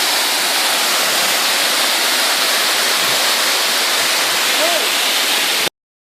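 Loud, steady rush of a high waterfall, water crashing down onto rocks; it cuts off abruptly near the end.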